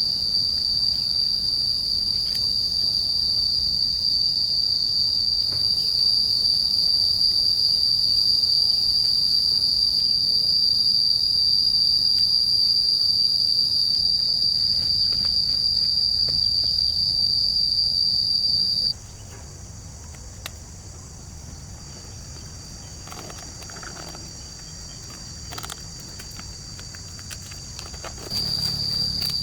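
Steady chorus of insects, a continuous high-pitched shrill drone. About two-thirds of the way through it cuts off abruptly to a quieter, higher hum with a few faint clicks, and the loud drone returns near the end.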